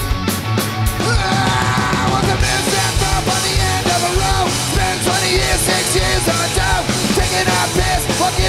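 Punk rock band playing live through a festival PA: a guitar-led opening, with the full band coming in about a second in.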